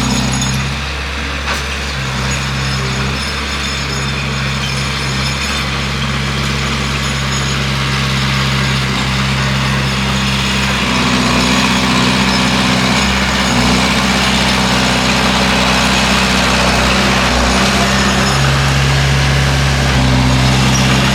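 Bulldozer's diesel engine running steadily under load, its note shifting several times as the load changes, with a steady noisy mechanical clatter above it.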